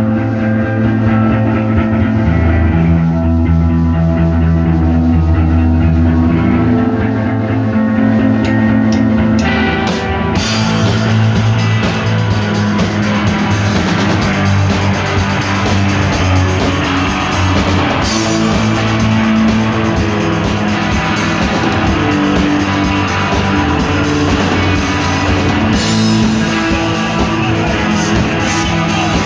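Rock music with electric guitar and drums playing continuously. About ten seconds in, the sound turns fuller and brighter.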